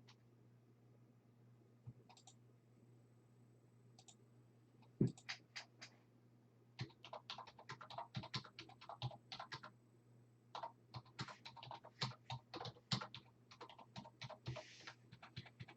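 Typing on a computer keyboard: a few scattered keystrokes, then a run of quick, irregular typing from about seven seconds in.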